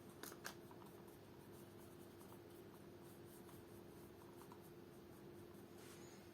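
Near silence with faint rubbing as a tinted leather cream is worked onto the shoe leather, a couple of light clicks about half a second in, and a faint steady hum underneath.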